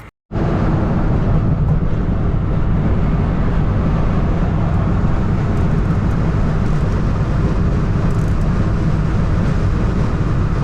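Steady engine and road noise of a vehicle cruising at highway speed, a deep even rumble.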